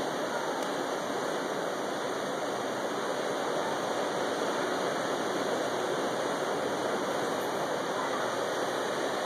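Steady rushing noise, like running water, holding level with no breaks or distinct events.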